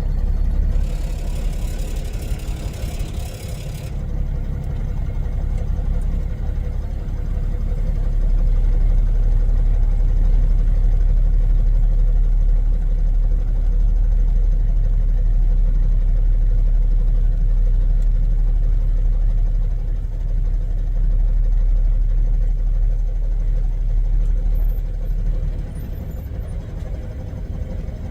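Semi truck's diesel engine running with a steady low rumble, growing louder about eight seconds in and easing off near the end. A high hiss lasts about three seconds near the start.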